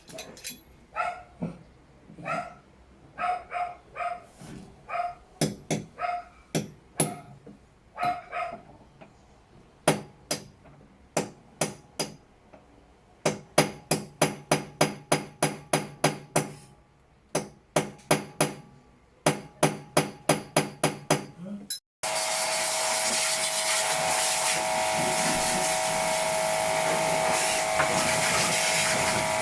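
Hammering on the washing machine's rust-seized pulsator: sharp strikes, spaced at first, then in quick runs of about three a second. About 22 seconds in the hammering stops and a steady whirring motor noise takes over.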